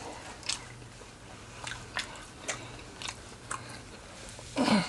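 Close-up chewing and biting of crispy fried chicken, with irregular crunches of the breading about every half second. Near the end comes a short, low, falling voiced sound from the eater.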